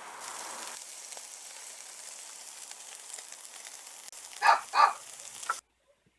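A steady hiss of background noise, with two short, loud animal calls about a third of a second apart near the end. The sound then cuts off abruptly.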